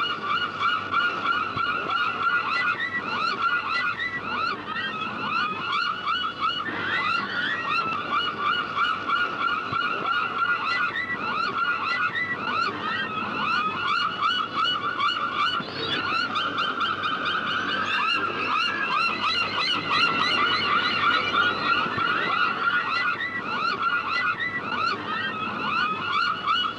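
A flock of seagulls calling, many short cries overlapping in a dense, continuous chorus.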